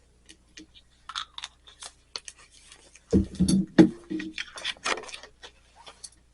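Small clicks, taps and rattles of tools and objects being handled on a workbench, with a louder cluster of knocks and scraping about three seconds in.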